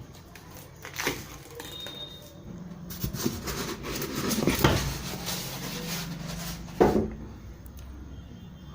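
Several knocks, with a stretch of rustling and scraping between them in the middle.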